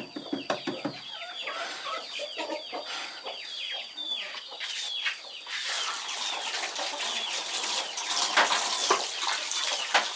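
Chickens clucking, with a rapid run of high, falling peeps over a thin steady high tone. About halfway through, a louder rushing hiss with scattered knocks takes over.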